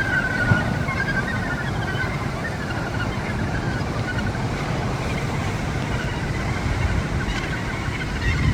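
Wind rushing on the microphone over the wash of surf, with the calls of a gannet colony faintly heard through it.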